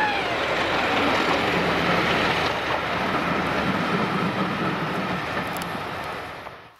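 Diesel-hauled passenger train passing and running away: a steady rumble and clatter of wheels on the rails, with a low drone from the diesel locomotive at its head. The sound fades out near the end.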